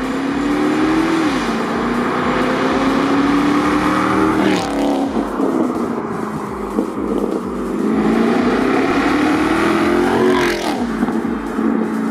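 Audi S5's 4.2-litre V8 through an aftermarket Armytrix valved exhaust, accelerating hard. The revs climb steadily through a gear, drop at an upshift about four and a half seconds in, and climb again, with another shift near the end.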